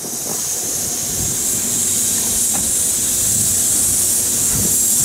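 Kintetsu electric commuter train pulling slowly into a station platform: a steady high hiss sets in suddenly and holds over the low rumble of the wheels, with a few faint knocks.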